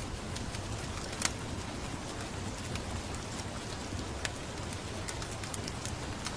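Steady rain with the scattered sharp pops of a crackling wood fire. The louder pops come about a second in and again near four seconds.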